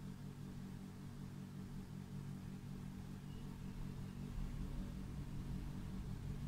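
Electric S-train passing: a low, steady running noise that grows louder about four seconds in as the train goes by.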